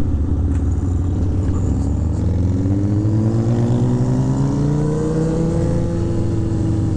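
Kawasaki 636 inline-four sport bike engine running under way. Its pitch climbs from about two seconds in as the bike accelerates, then levels off near six seconds.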